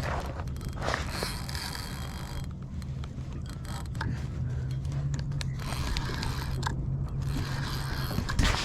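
Fishing reel mechanism clicking and grinding, with scattered short clicks and scrapes, as line is worked against a big, heavy redfish. A steady low hum runs underneath.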